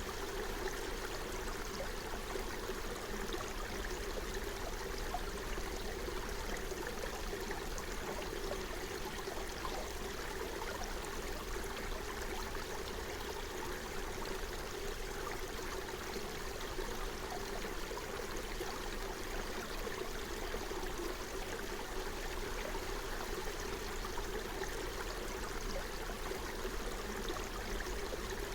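Forest stream flowing steadily over rocks, a continuous babbling and trickling of water.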